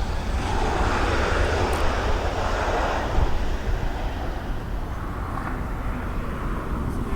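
Jet airliner engines roaring, swelling about a second in and then slowly fading, over a steady low rumble.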